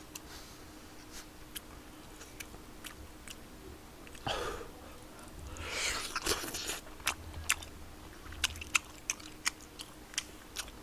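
A person chewing food close to the microphone: many short wet mouth clicks and smacks, with a couple of longer breathy or slurping sounds around the middle.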